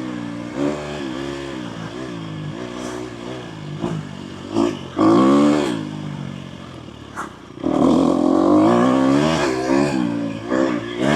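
Dirt bike engine revving up and down as it is ridden, the pitch rising and falling with the throttle, with the strongest bursts of throttle about five seconds in and again from about eight seconds on. A few sharp clicks cut through the engine sound.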